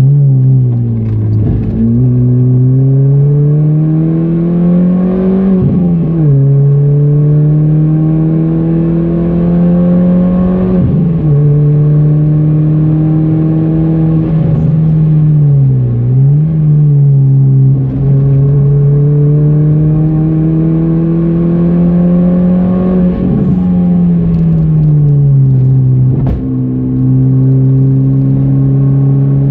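Car engine heard from inside the cabin while lapping a race circuit. It runs hard, climbing in pitch under acceleration and then dropping sharply several times, the pattern of gear changes and braking for corners.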